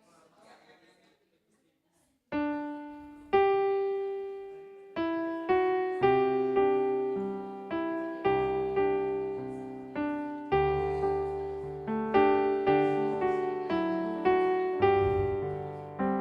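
Piano playing a slow introduction of struck chords and notes, each one ringing and then fading, as the accompaniment before a sung pop song. It starts about two seconds in, after a moment of near quiet.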